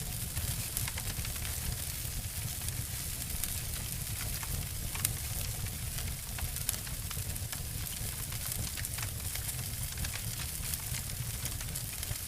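Two wood fires layered together, crackling and snapping: a dense patter of small pops over a low rumble, with a sharper snap about five seconds in.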